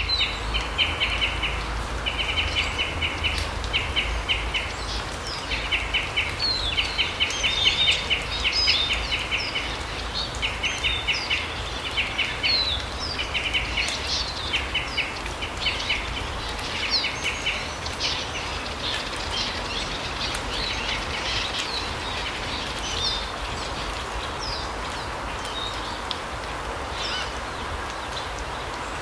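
Small forest birds calling in a larch wood, with many short high chirps and a rapid, pulsing trill repeated in bouts of about a second that stops about halfway through. A steady low rumble runs underneath.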